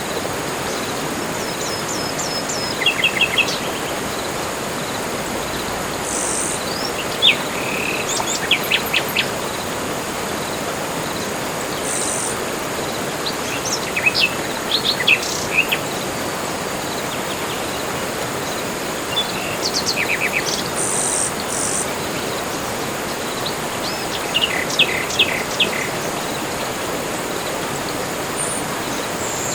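Tropical forest birdsong: several birds giving short calls of rapid repeated high notes and chirps every few seconds, over a steady background hiss and a thin high insect-like drone.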